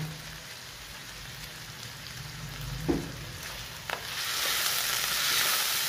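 Chicken pieces and browned onions sizzling in hot oil in a wok, faint at first, then much louder about two thirds of the way in as a spatula stirs them, with a light click of the spatula just before.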